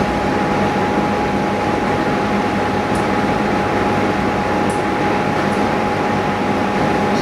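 Steady machine hum and whir with a constant whining tone, with a couple of faint light ticks.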